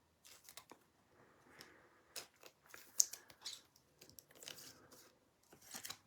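Crinkling and tearing of a plastic trading-card pack wrapper being handled and opened: short, irregular crackles.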